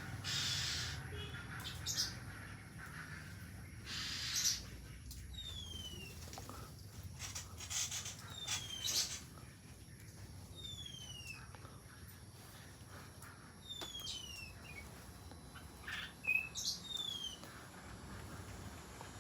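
Mixed small birds in an aviary calling: short, falling whistled notes repeated every second or two, mixed with brief high chirps and rustling bursts.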